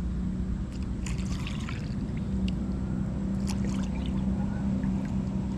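Motorboat engine running with a steady low drone, the boat coming nearer. Faint water splashes and drips are heard over it.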